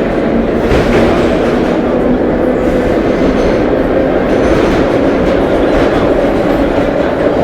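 Vintage 1930s R1-9 subway train in motion: steady, loud running noise of steel wheels on the rails and the cars' running gear.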